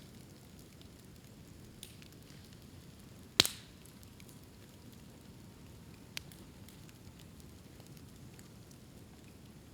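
A bonfire of bamboo burning with a low, steady crackle. One loud, sharp pop comes about three and a half seconds in, with smaller ones a little before it and near six seconds, as the heated bamboo cracks open.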